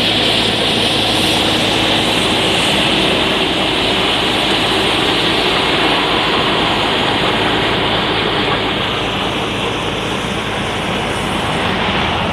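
Road vacuum sweeper truck running, its suction fan giving a loud, steady rushing noise with a hum underneath, easing off a little near the end.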